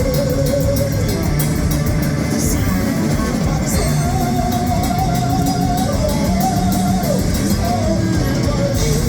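A heavy metal band playing live: distorted electric guitars and a drum kit with steady cymbal hits, over a melody of long held, wavering notes that step up in pitch about four seconds in.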